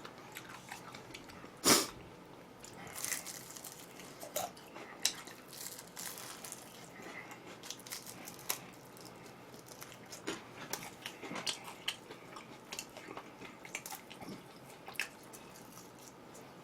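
Close-miked eating of glazed fried chicken: scattered crisp crunches from biting into the crust and wet chewing, with one louder crunch about two seconds in.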